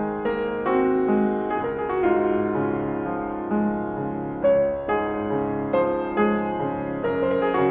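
Piano playing a moderate-tempo melody, with a new note or chord struck about every half second and left ringing under the next.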